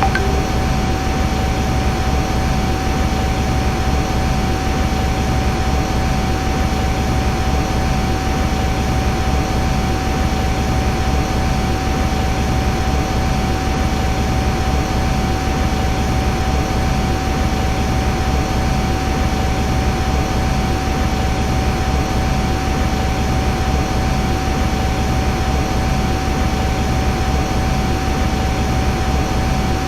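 Machine noise from a metal lathe running: a steady, unchanging hum and rush with one constant high whine, and no cutting changes or knocks.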